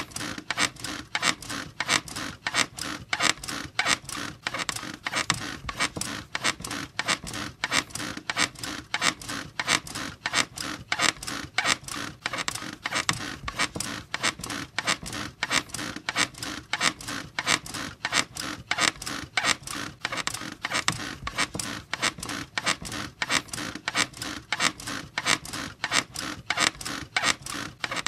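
A squeaky bed creaking and squeaking over and over in a quick, even rhythm.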